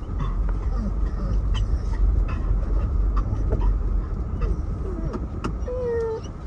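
Steady low rumble of a car driving, heard from inside the cabin, with scattered light clicks. Near the end a dog gives a short whine, impatient to get out of the car.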